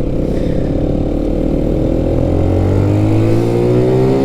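Benelli BN 125's single-cylinder engine accelerating, its pitch rising steadily through the gear.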